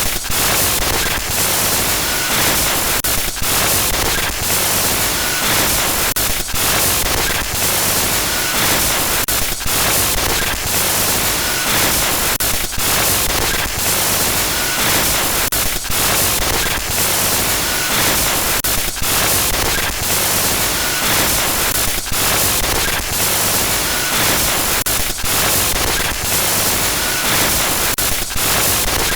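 Harsh digital glitch static: loud, dense hiss broken by rapid crackles and brief dropouts, in a loop that repeats about every three seconds.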